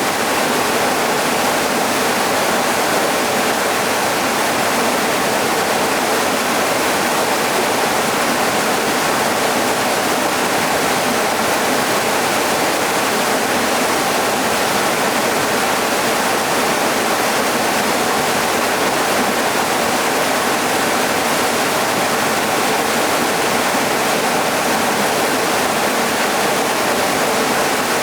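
Waterfall: falling water rushing as a steady, unbroken roar of noise.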